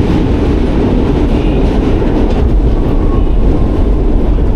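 New York City Subway Q train running, a loud steady rumble of wheels on the track.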